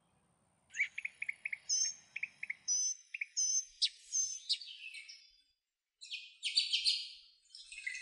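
A songbird singing: a run of short, repeated high chirps and whistled notes, then after a brief pause a quicker bout of rapid, buzzy notes.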